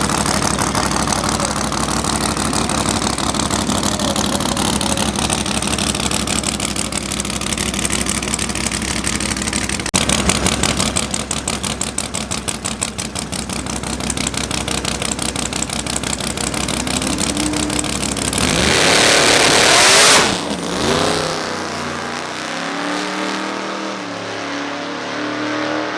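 Drag race car engines running steadily, then from about ten seconds in a fast, rapid pulsing as they rev. Near the end a loud rushing noise lasts about two seconds and gives way to what sounds like music.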